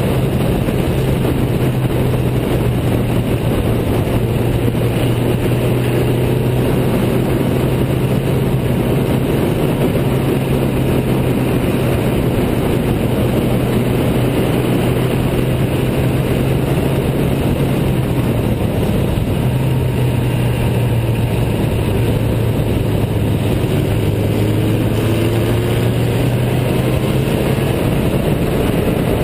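Riley 12/4 Special's four-cylinder engine running hard at speed, a steady engine note buried in heavy wind rush over the exposed microphone. The note drops slightly in pitch twice in the second half.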